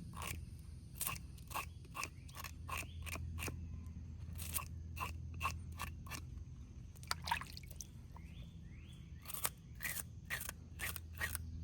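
Back of a knife blade scraping the scales off a small bluegill: a series of short rasping strokes, two or three a second, with a brief pause near the end before a final quick run of strokes.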